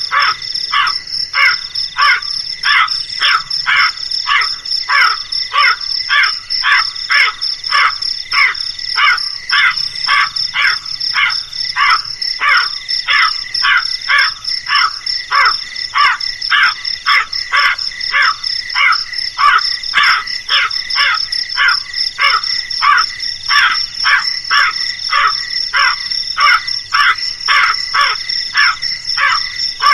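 Crows cawing continuously, about two short harsh caws a second, over a steady high-pitched hum.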